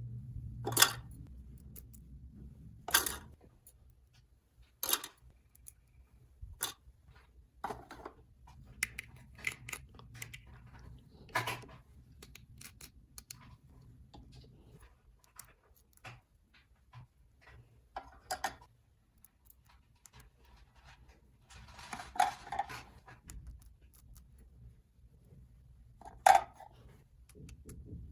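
Small plastic toy pieces being handled and set down: scattered sharp clicks and taps every few seconds, with a short rustle about three quarters of the way through.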